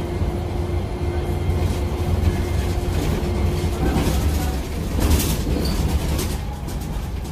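Steady low rumble of a moving vehicle, with a held tone that fades about four seconds in and short hisses around five seconds in.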